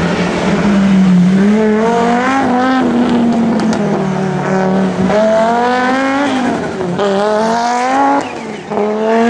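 Rally car engine accelerating hard, its pitch climbing and dropping back several times as it shifts up through the gears, with a brief lift-off near the end.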